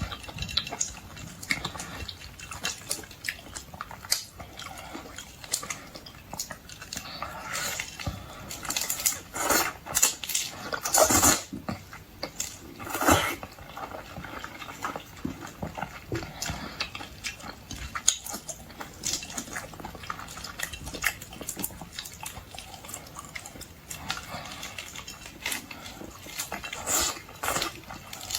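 Close-miked eating of boiled seafood: chewing and biting, a run of irregular crunches and clicks, loudest about ten to thirteen seconds in.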